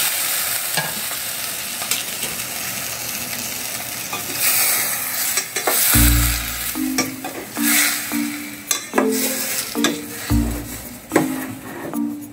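Liquid sizzling and hissing in a hot steel saucepan of chicken just after rice water is poured in. About halfway through, metal tongs click and knock against the pot as the chicken is turned, and light background music with plucked notes comes in.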